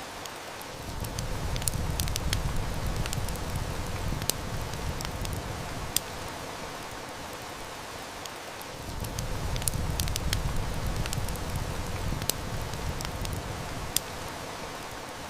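Steady hiss of heavy rain with a wood fire crackling and snapping in sharp, scattered pops. A low rumble of distant thunder swells up twice, each time for about five seconds.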